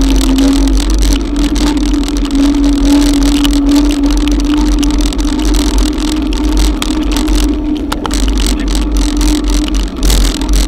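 Wind rumble and the hiss of rain and wet tyres while riding an electric bicycle in heavy rain, with a steady hum from the e-bike's motor.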